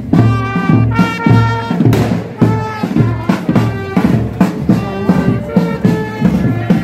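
Marching band playing: brass instruments holding notes over a steady bass-drum and snare beat.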